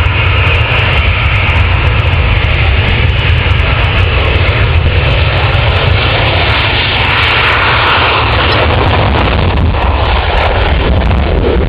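Loud, steady aircraft engine noise from a display aircraft, with strong low-pitched energy.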